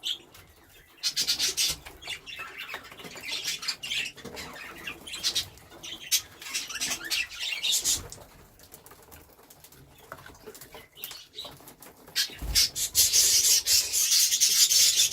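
Pet budgerigars fluttering their wings and chirping in their cages, in several bursts, the longest and loudest near the end.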